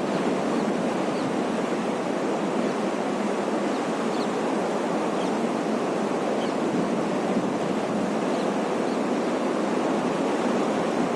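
Godavari river water flowing fast, a steady rush of water noise that holds even throughout.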